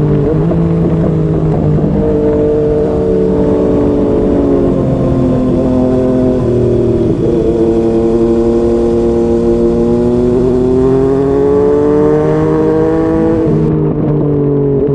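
Yamaha MT-09's three-cylinder engine through a Yoshimura R55 slip-on exhaust, pulling through the gears with a few quick shifts in the first half. It then climbs steadily in pitch under acceleration for several seconds and drops near the end.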